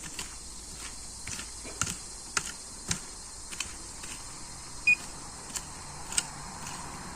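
A series of short, light clicks or taps, roughly one every half second to second, over a steady high insect chirring, with one short high beep about five seconds in.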